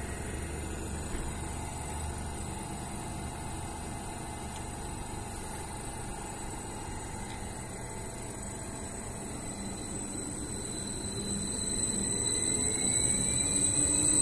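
Electric multiple unit pulling away from the platform: a steady electrical hum, then the traction motors' whine rising in pitch and growing louder over the last few seconds as the train picks up speed.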